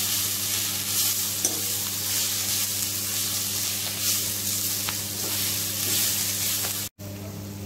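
Malabar spinach leaves sizzling as they fry in oil in a steel kadai, while a metal spatula stirs and scrapes them around the pan, over a steady low hum. Just before the end the sound cuts out for an instant and comes back quieter.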